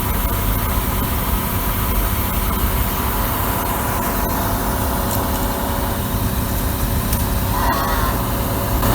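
Steady low rumble of a running motor vehicle, with faint voices in the background near the end.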